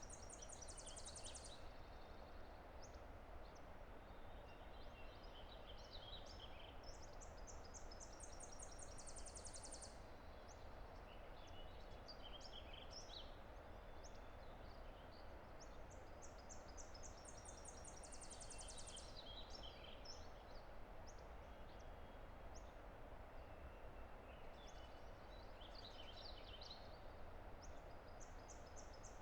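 Faint, steady rush of a distant river under songbirds singing. One bird repeats a high song of a few notes ending in a fast trill, about every nine seconds (three times), with scattered chirps between.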